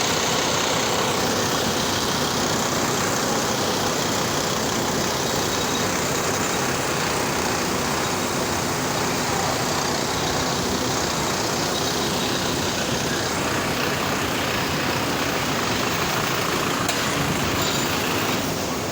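Loud, steady rushing noise at a blast furnace taphole, with no distinct strokes or tones.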